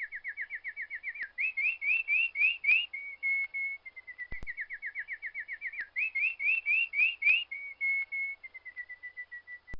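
A songbird singing the same clear whistled phrase twice: each phrase opens with a fast run of short falling notes, moves to a few louder rising notes, then a couple of steady notes that trail off into quicker, softer ones. There is a faint click between the two phrases.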